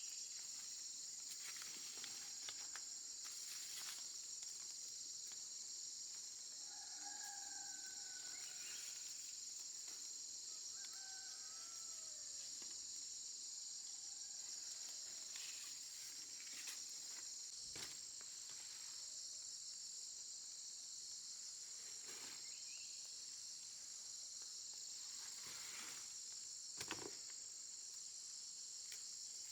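Steady, high-pitched chorus of insects such as crickets or cicadas. A few short pitched calls come about a quarter of the way in, and two sharp clicks come later.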